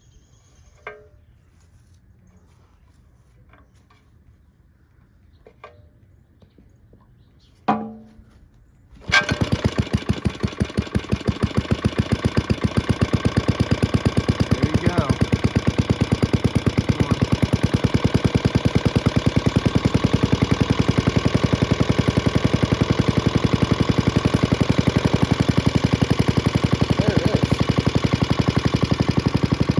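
Antique Briggs & Stratton model WI single-cylinder engine being pull-started cold on choke. After a few quiet knocks and a sharp pull near eight seconds in, it catches about nine seconds in and keeps running with a steady, even firing beat.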